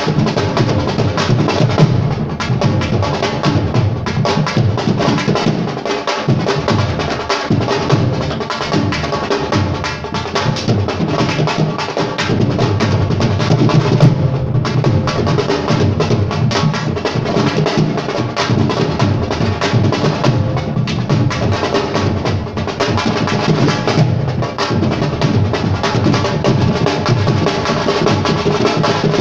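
Live drumming: drums played in a fast, continuous rhythm with deep bass strokes.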